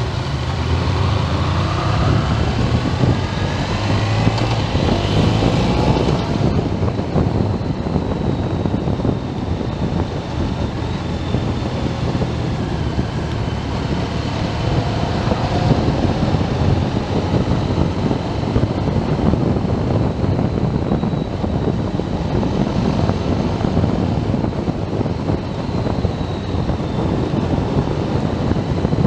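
Motorcycle riding at road speed: engine running under heavy wind noise on the microphone, with the engine pitch rising and falling over the first few seconds, then steady.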